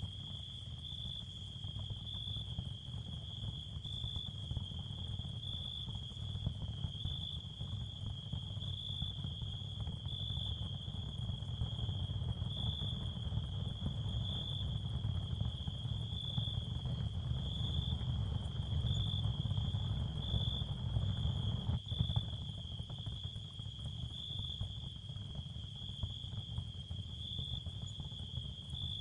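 Ambient sound-therapy soundscape: a steady high insect-like trill that swells gently about once a second, over an even low rumble.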